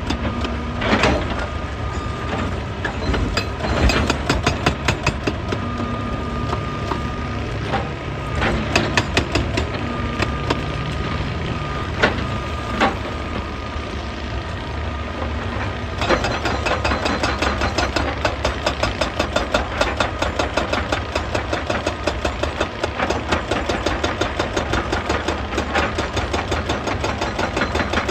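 A hydraulic excavator's diesel engine running, with a steady whine and occasional sharp knocks of rock in the first half. About halfway through, the sound changes suddenly to a fast, even pounding over the engine.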